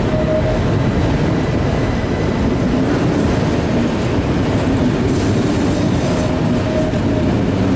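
Freight train's autorack cars rolling past with a steady, loud rumble of steel wheels on rail. Brief wheel squeals come and go, with a high-pitched one about five seconds in.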